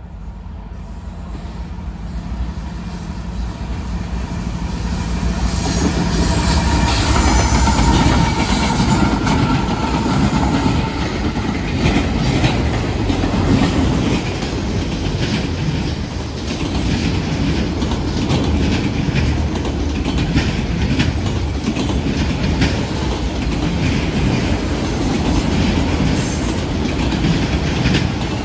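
CSX freight train passing: the diesel locomotives' engine drone grows louder over the first several seconds as they approach, then a long string of empty autorack cars rolls by with a steady clickety-clack of wheels over the rail joints.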